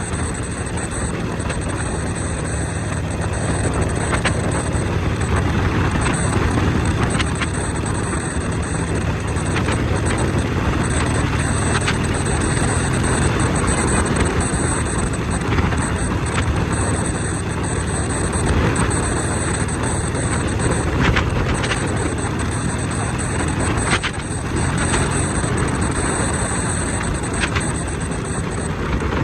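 Motorcycle being ridden, its engine running steadily under a continuous rush of road and wind noise.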